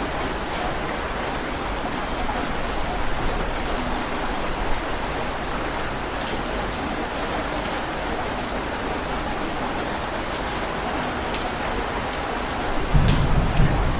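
Steady heavy rain, with scattered sharp drop ticks. About a second before the end, a low rumble of thunder sets in and grows louder.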